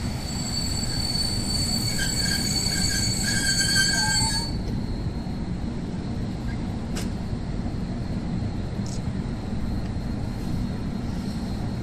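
Locomotive-hauled passenger train rolling slowly past with a low rumble, its wheels or brakes giving a high-pitched squeal of several steady tones that cuts off sharply about four and a half seconds in. The rumble goes on afterwards, with a couple of short clicks.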